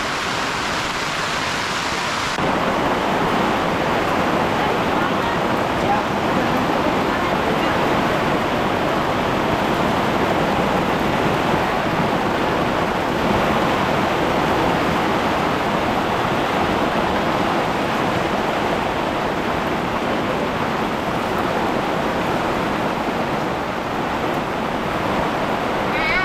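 Steady rushing of water, a dense even hiss, which shifts slightly in tone about two seconds in.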